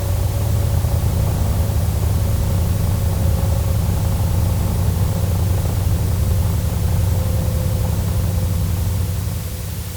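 Airplane engine noise: a steady low rumble with a faint held hum above it, fading out near the end.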